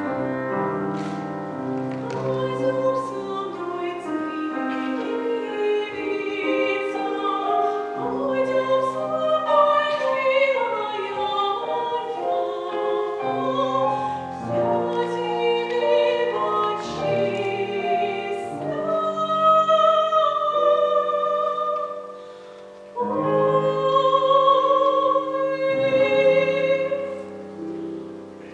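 A young singer performing a classical art song in trained academic style with piano accompaniment, holding notes with vibrato. There is a brief lull about two-thirds of the way through.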